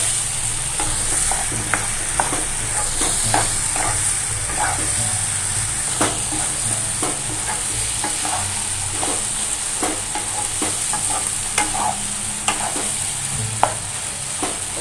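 Masala-coated raw banana slices shallow-frying in oil in a nonstick pan, with a steady sizzle. A spatula stirs them throughout, scraping and knocking against the pan in frequent short clicks.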